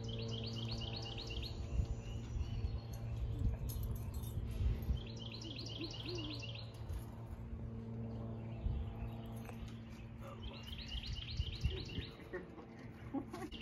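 A songbird singing three bursts of rapid, evenly repeated high notes, about five seconds apart, over a steady low hum.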